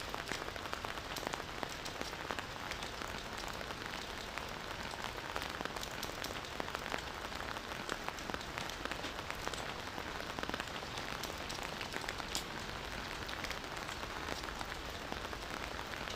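Steady rain falling, a constant hiss with many close raindrops ticking through it.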